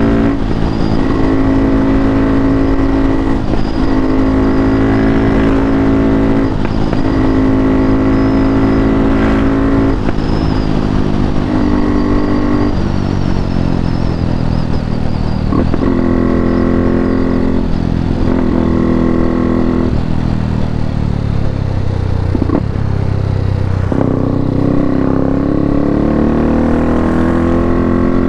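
KTM RC 390's single-cylinder engine through an Akrapovič full exhaust system, ridden under throttle, with its note holding and stepping between rev levels. The revs fall away about twenty seconds in and rise again near the end.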